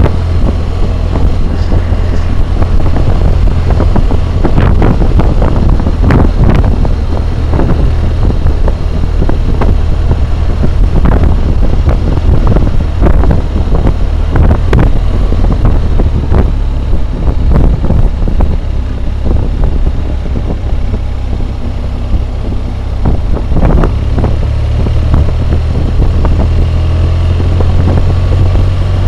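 Loud wind roar and buffeting on a helmet-mounted camera's microphone while riding a BMW motorcycle at road speed, with the motorcycle's low, steady drone underneath.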